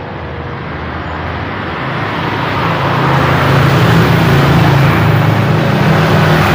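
Road traffic: engines and tyre noise of passing vehicles, growing louder over the first few seconds as a vehicle with a low, steady engine note draws near, then holding loud.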